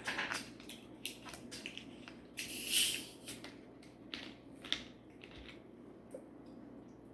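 Eating sounds close to the microphone: chewing, biting and mouth clicks in short irregular bursts, with one longer, louder hissy noise about three seconds in.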